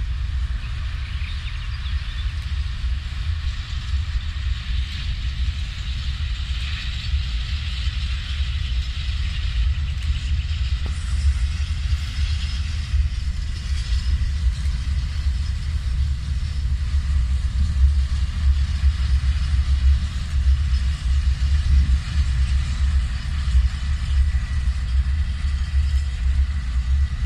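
A railway train running with a steady noisy rumble and a faint steady whine above it, under a deep, flickering low rumble that is the loudest part.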